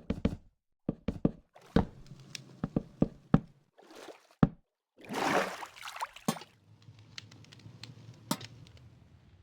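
Campfire wood crackling and popping in sharp, irregular snaps, with a brief rushing noise about five seconds in.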